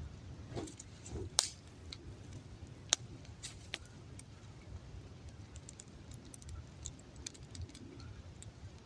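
Campfire crackling with sparse, irregular sharp pops over a low background rumble.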